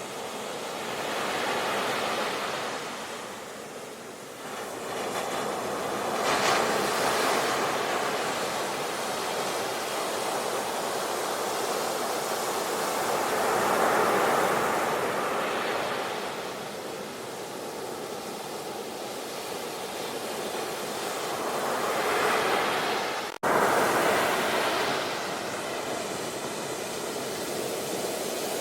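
Ocean waves breaking and washing on the shore, the surf swelling and falling back every few seconds. About three quarters of the way through the sound cuts out for a split second, then a wave surges in loudly.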